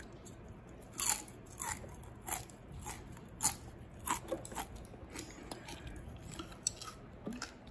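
A person chewing crisp deep-fried scorpionfish coated in potato starch, with sharp crunches roughly every half second.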